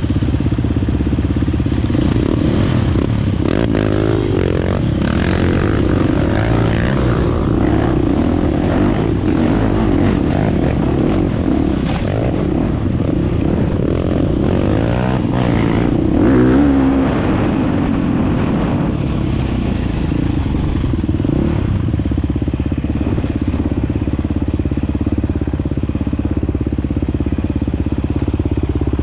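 Dirt bike engine running while riding, its revs rising and falling, with a louder surge about sixteen seconds in.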